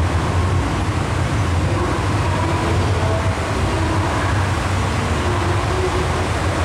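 MTR M-Train electric multiple unit running through an underground station platform: a steady low rumble with faint brief tones above it.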